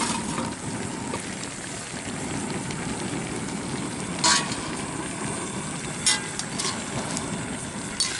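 Chicken frying in an aluminium pot on a stove: a steady low rushing noise, with three sharp metal clinks from the steel spoon and plate about four, six and eight seconds in.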